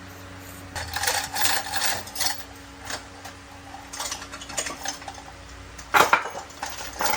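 Metal tools and parts clinking and knocking in irregular bursts, the loudest knock about six seconds in, over a steady low mechanical hum.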